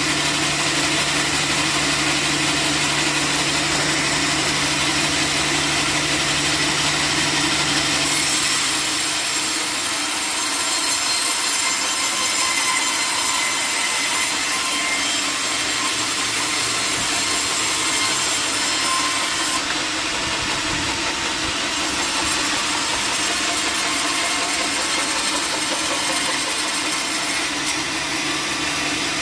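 Sawmill saw cutting through a wooden log, with an engine running steadily; about eight seconds in the cutting grows brighter and louder while the low engine hum fades.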